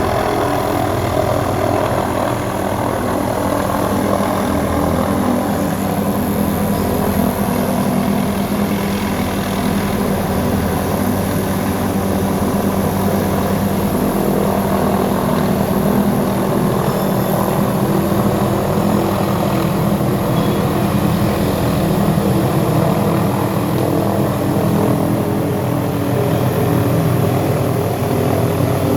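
Helicopter running steadily, its engine and rotor giving a constant, even sound.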